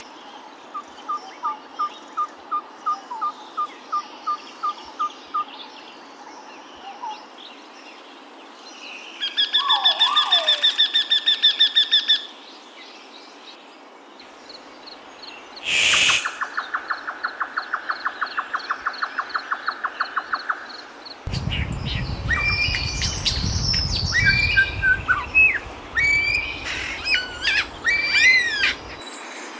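Several different birds calling in turn. First comes a slow string of short repeated notes, then a loud, fast trill lasting about three seconds. After a sharp click about halfway through there is a rapid even series of notes, and near the end a mix of varied chirps and rising and falling whistles over a low rumble.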